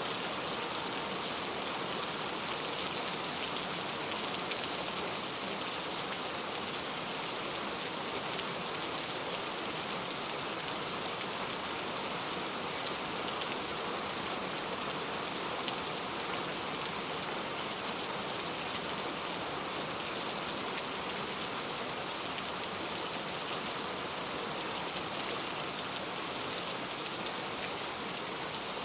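Steady rain falling, an even hiss of many drops with fine scattered patters.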